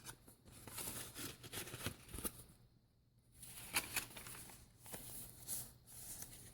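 Paper rustling and light taps as journal pages, cards and paper pieces are handled and turned, with a short quiet pause about halfway.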